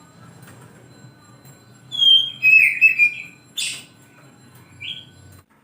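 Oriental magpie-robin (kacer) singing: a quick run of clear whistled notes about two seconds in, a loud harsh rasping note a second later, and one more short whistle near the end.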